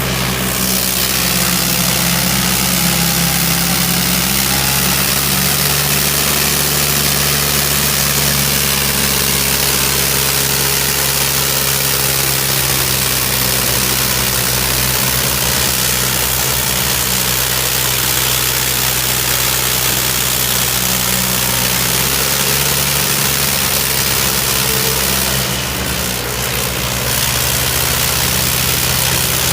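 Tractor diesel engine running steadily, its low hum holding an even pitch under a loud hiss.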